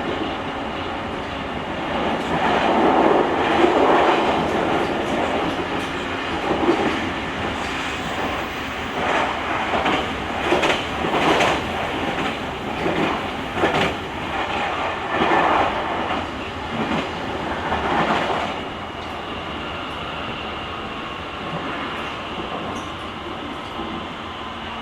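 JR Kyushu 883 series limited express train running, heard from inside the vestibule deck of a GTO-inverter motor car. Continuous wheel and body rumble with a run of clattering jolts over rail joints or points, which eases about two-thirds of the way in to a steadier hum with a faint steady whine.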